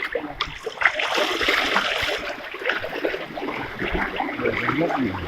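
Floodwater splashing and sloshing in irregular bursts, as of people or a boat moving through flooded streets.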